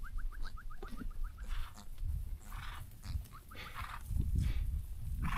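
A bird calling in a quick run of short rising notes, about eight a second, then a shorter run again a little past the middle, over a low rumble.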